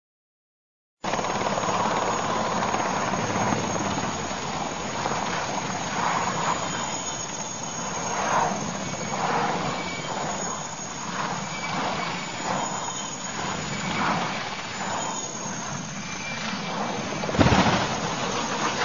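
Aircraft engine noise running steadily with irregular surges, and one sudden loud burst near the end.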